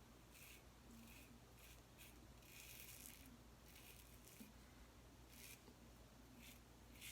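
Single-edge safety razor scraping through stubble in faint, short strokes, a few single strokes and one longer run of strokes about three seconds in.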